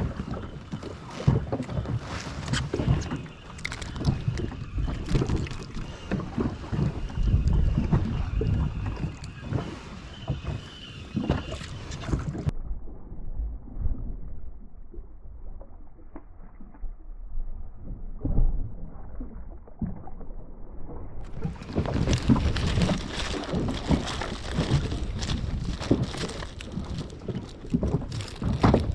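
Wind on the microphone and water around a small boat, with irregular small knocks. For about nine seconds in the middle the sound turns muffled, the higher sounds cut off, then the full sound returns.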